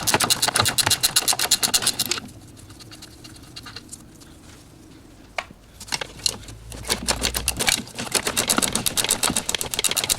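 Ratchet wrench clicking rapidly as it is swung back and forth to run nuts off, in two bursts: about two seconds at the start, then again from about six seconds in.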